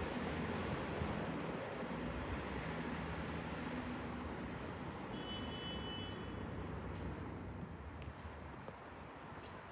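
Distant Voyager diesel train approaching, a low steady rumble under a hiss of outdoor noise. Short, high, falling bird chirps come every second or so.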